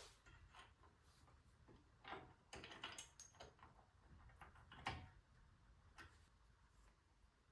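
A few faint clicks and clinks of small metal drum-brake parts being handled and fitted as new rear brake shoes go on. There is a cluster of clicks around two to three seconds in and a sharper click about five seconds in.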